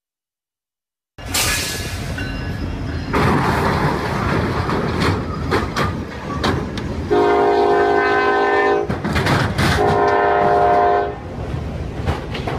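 A train running with scattered sharp knocks, starting abruptly about a second in, and its horn sounding two long blasts of about one and a half to two seconds each in the second half.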